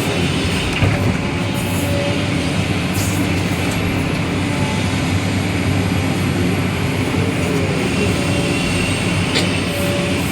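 Heavy diesel mining machinery running steadily, a low drone with a constant pitch, with one short click near the end.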